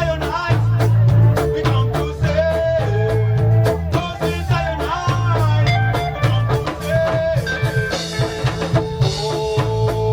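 Reggae band playing a lovers rock song: a heavy bass line, drum kit on a steady beat, and guitar.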